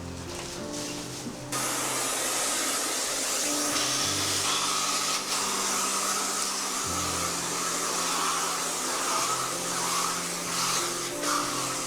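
A steady rushing whoosh of an electric appliance switches on about a second and a half in and keeps going, with soft background music underneath.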